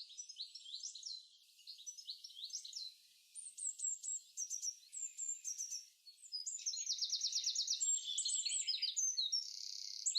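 Songbirds singing: phrases of high, quickly repeated whistled notes, with a fast trill from about the middle onwards.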